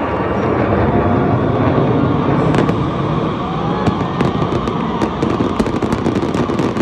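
Fireworks going off: a continuous rumble of bursts with sharp crackling pops that come thicker from about halfway through.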